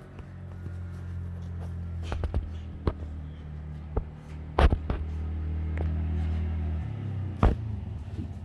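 An engine idling with a steady low hum that turns to a rapid pulsing about seven seconds in, with a few sharp knocks and scrapes in between.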